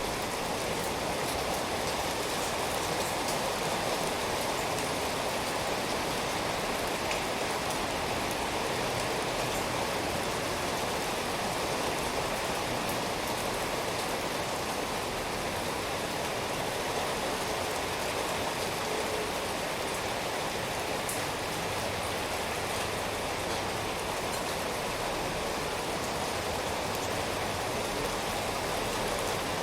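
Steady rainfall: an even hiss of rain with faint individual drops ticking now and then.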